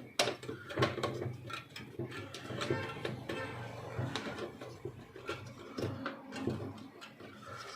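Scattered light clicks and knocks of a screwdriver and plastic parts being handled on an HP LaserJet 1020's paper pickup assembly, over a faint steady low hum.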